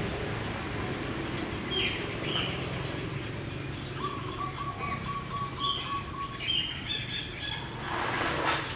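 Birds chirping: short high falling chirps scattered through, and a held steady whistle lasting about two seconds from about four seconds in, over a low steady hum. A short rush of noise swells and fades near the end.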